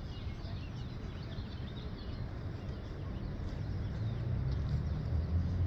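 Small birds chirping on and off over a steady low rumble that grows louder in the last couple of seconds.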